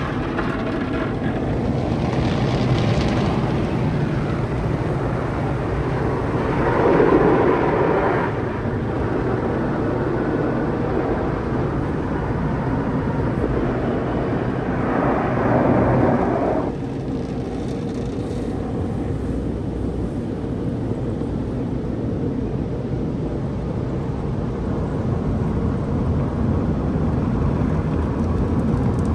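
MacNeil tunnel car wash equipment working over a car: a steady rush of water spray and brushes, swelling louder twice, about seven and fifteen seconds in.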